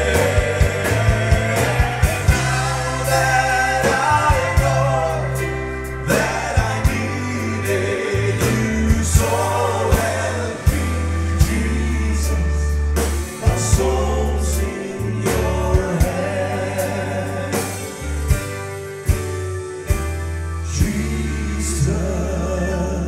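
Gospel song performed with a band: a singing voice over bass notes and regular drum hits.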